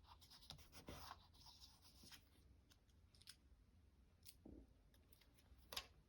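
Near silence with faint, scattered clicks and short rustles of paper craft materials being handled; the clearest is a short click near the end.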